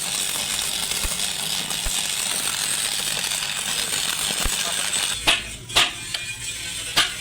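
A steady hiss, then about five seconds in a run of sharp blows, likely a hammer on metal, a little under two a second.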